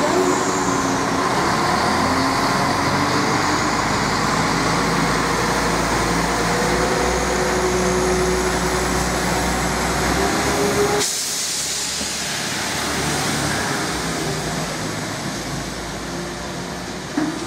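Diesel multiple unit trains: a steady engine hum with wheel and rail noise from a unit moving off. It cuts off suddenly about two-thirds of the way in to the quieter engine and rail noise of another approaching unit, with a short knock near the end.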